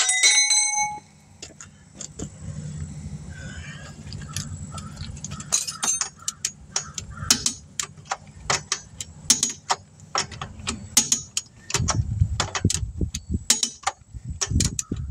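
Metal clanking and clinking of tools and jack gear being handled: one loud ringing clank at the start, then a long run of sharp clicks and clinks, over a low steady hum.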